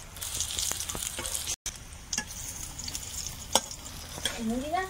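Hot oil sizzling in a frying pan as banana-flower fritters fry, loudest in the first second and a half, with a few sharp clicks.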